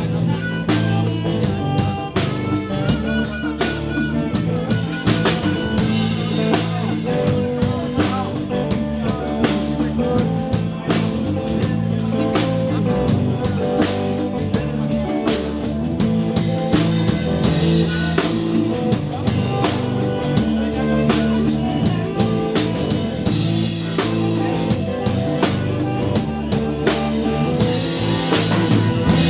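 Live blues band playing an instrumental passage, with drum kit and guitar and a steady beat.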